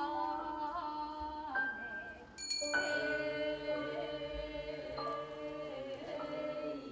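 A slow sung lament in the manner of a Korean funeral bier song (sangyeo-sori), one voice holding long, wavering notes. A small bell rings out once about two and a half seconds in.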